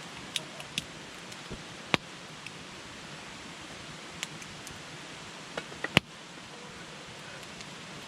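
Wood campfire crackling: scattered sharp pops over a steady hiss, the loudest pops about two seconds in and again near six seconds.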